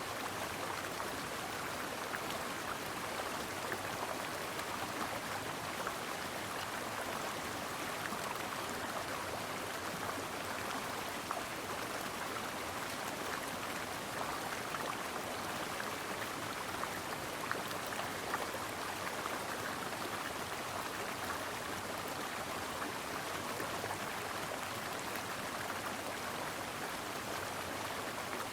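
A brook running over rocks: a steady rush of water with fine splashes and trickles, no rise or fall.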